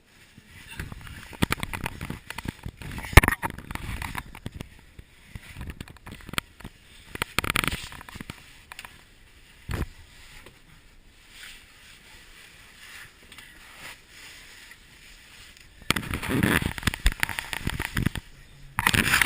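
Irregular scraping, rustling and knocking of people moving over rock and gravel in a cave passage. It comes in bursts, the busiest about three seconds in, around seven seconds and near the end.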